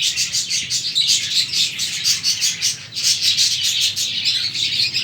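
A flock of budgerigars chattering and chirping, with many quick high calls overlapping in a constant stream.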